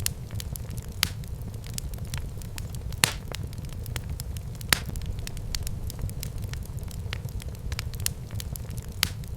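Wood fire burning in a fireplace: a steady low rumble of flames, with irregular pops and crackles, a few of them sharper and louder.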